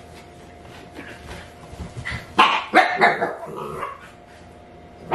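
Siberian husky puppy barking and yipping: a quick run of sharp barks about two seconds in, ending in a longer drawn-out call.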